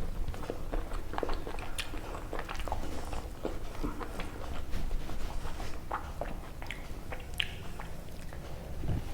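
Close-up wet chewing and irregular lip smacks of a person eating chicken curry and rice by hand, over a steady low background hum.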